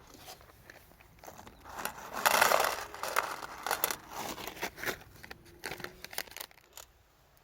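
Irregular crinkling and rustling with sharp clicks as something is handled up close, loudest about two to three seconds in.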